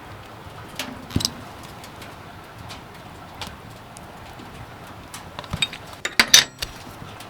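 Scattered light clicks and knocks of things being handled, with one knock about a second in and a louder burst of clatter near the end, over a faint low steady hum.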